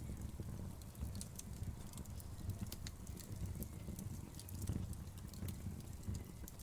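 Fire crackling, with irregular sharp pops scattered over a low steady rumble.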